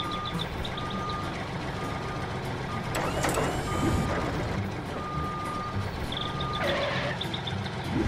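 Reversing alarm beeping about once a second as a tractor backs up its dump trailer, over the tractor's steady engine rumble. A brief noisy burst comes about three seconds in and a short hiss near seven seconds.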